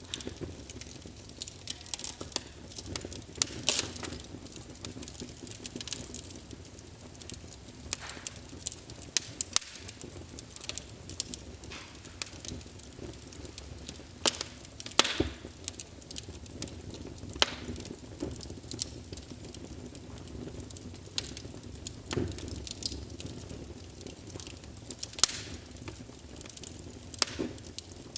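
Wood fire crackling in a fireplace: irregular sharp pops and snaps, a few louder ones, over a soft steady hiss of the burning logs.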